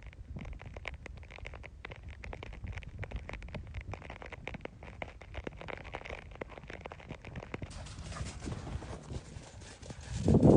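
Animal footfalls: a dense, irregular patter of sharp clicks, with one loud short sound near the end.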